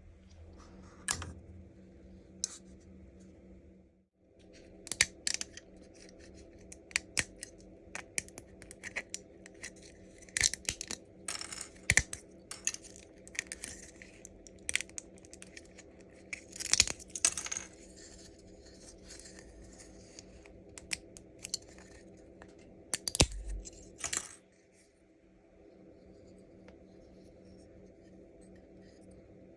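Support material being snapped, cracked and peeled off a 3D-printed plastic carp model: irregular clusters of sharp snaps and clicks, busiest in the middle, stopping about three-quarters of the way in, over a steady low hum.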